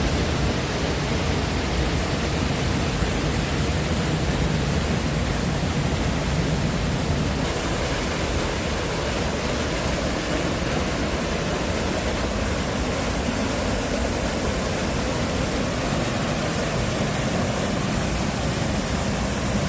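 Water rushing steadily, as from a stream or waterfall, an even hiss with a low rumble beneath.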